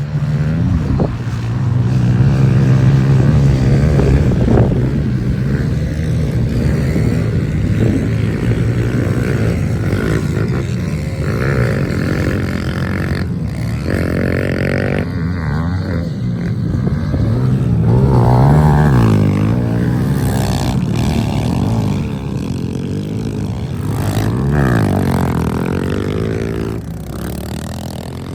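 Pit bike engines running and revving, the pitch rising and falling again and again with the throttle, getting a little quieter near the end.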